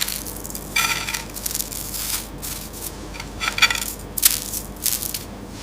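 Metal kitchenware clattering and clinking in an irregular run of sharp knocks, with two brief ringing clangs, one about a second in and one around three and a half seconds in.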